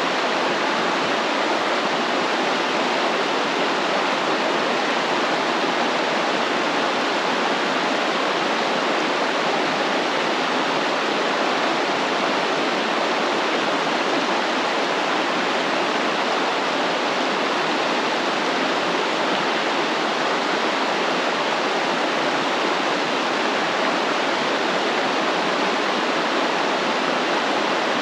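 Stream water flowing and rushing steadily, an even, unbroken wash of water noise.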